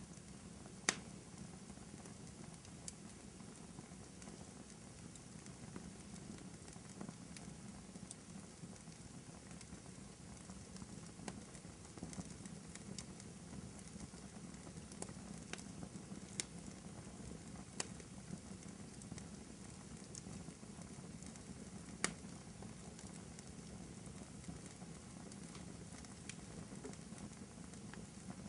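Wood fire crackling in a fireplace: a low steady rumble of flames with scattered sharp pops and snaps, two louder pops about a second in and near 22 seconds.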